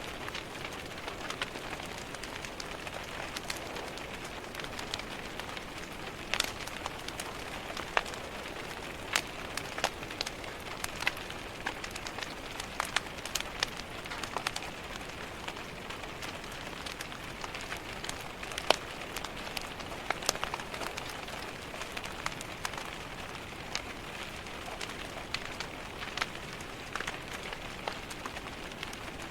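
Steady rain tapping against a window, with a wood fire crackling over it in irregular sharp pops, several a second.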